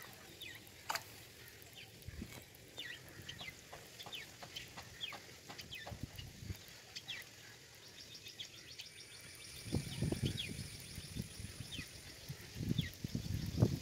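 Small birds calling in repeated short, falling chirps. Twice in the second half there is a louder, low pulsing sound.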